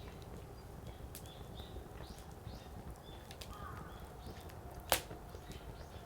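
Burning firewood: a steady low rumble of the fire with scattered small crackles, and one sharp, loud pop from the wood about five seconds in.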